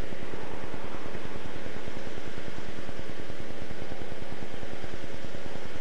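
Distant Amtrak passenger train running steadily across open ground: an even rumble with hiss and a few steady low tones, unchanging throughout.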